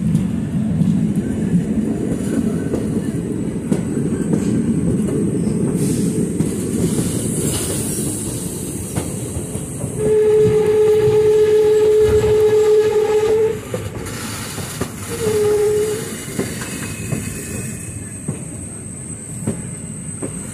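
Passenger train running along the track, heard from an open coach door: a steady rumble of wheels on rails. About halfway through, the locomotive's horn sounds one long steady blast of about three seconds, followed a second later by a short second blast.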